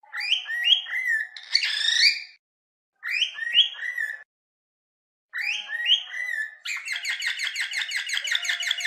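Cockatiel whistling: short phrases of rising-then-falling whistled notes with brief pauses between them, then, about two-thirds of the way in, a long run of rapid repeated notes.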